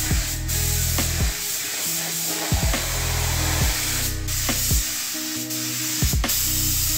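Spray gun hissing steadily as it lays down clear coat, over background music with a low beat about once a second.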